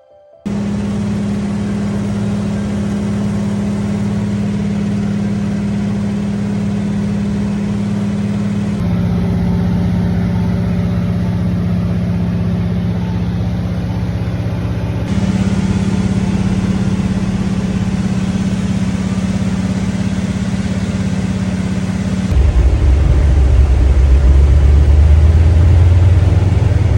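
Steady drone of a light aircraft's engine and propeller in flight, heard from inside the cabin. Its pitch shifts abruptly a few times, and near the end it becomes louder and deeper.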